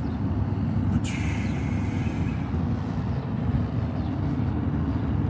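Steady low roar of a furnace's burner flame, with a hiss about a second in that slides down in pitch and fades out over a second or so.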